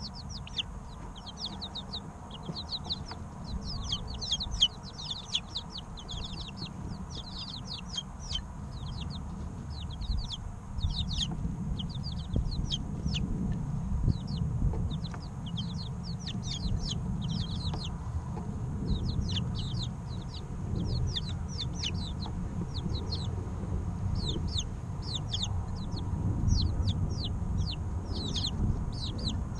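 A brood of three-week-old chicken chicks peeping continuously: many short, high, downward-sliding peeps overlapping one another. A low rumble runs underneath.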